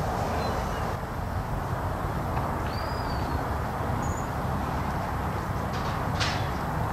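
Steady outdoor background noise with a couple of short, high bird chirps about three and four seconds in, and a brief sharp click near the end.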